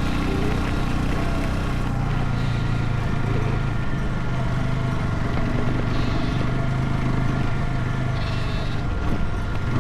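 Motorcycle engine running with a steady low hum.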